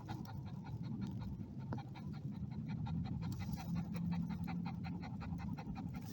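A dog panting rapidly and steadily, about five breaths a second.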